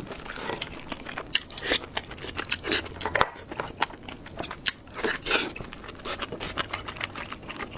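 Close-up chewing and mouth sounds: a person eating, with irregular wet smacks and small crunches.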